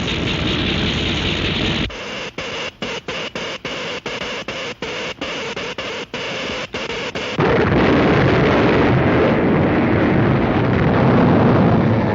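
Cartoon sound effects of an electric earthquake machine at work: an electrical hiss, then a crackling buzz that cuts in and out a dozen times, and about seven seconds in a loud, deep earthquake rumble takes over.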